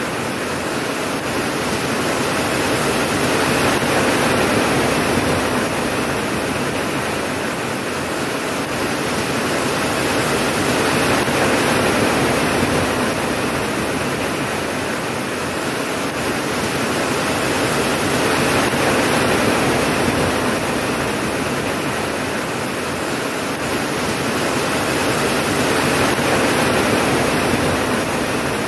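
Steady heavy rain, swelling and easing slowly about every seven or eight seconds, with no thunder.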